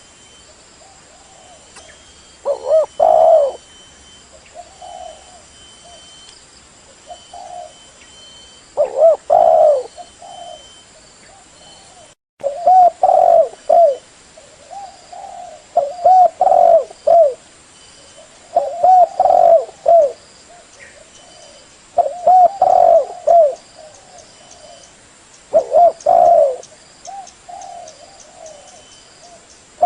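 Spotted dove cooing: the same short phrase of low coos repeated over and over, a loud phrase about every three seconds with softer coos in between.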